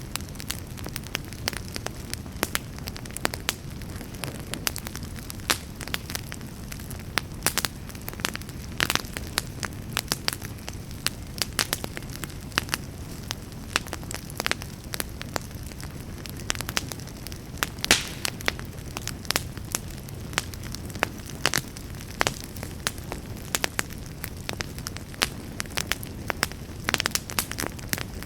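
Campfire burning, with irregular sharp crackles and pops over a steady low rumble of the flames. One louder pop comes about two-thirds of the way through.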